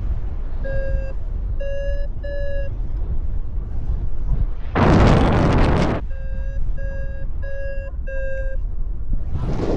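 Paragliding variometer beeping its climb tone: three short beeps near the start and four more in the second half, over steady wind buffeting the microphone. A loud gust of wind noise hits the microphone about five seconds in.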